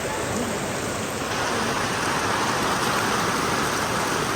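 Steady rushing hiss of heavy rain.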